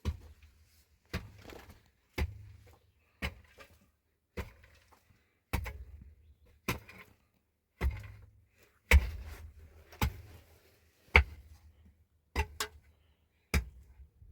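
Steady, repeated heavy blows, about one a second, each a sharp knock with a dull low thud. One comes as a quick double hit near the end.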